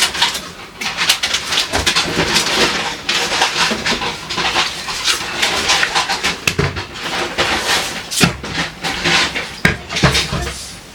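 Food containers being handled as a refrigerator is emptied: a run of clicks, knocks and rustling of plastic and glass, with a few duller thumps.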